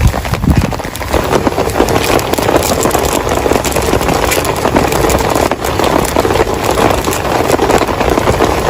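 Heavy rain falling, dense and steady, with a low thump about half a second in.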